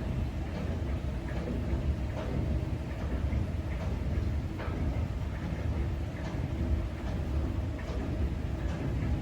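Steady low rumble of jet aircraft engines at an airport, with a few faint ticks here and there.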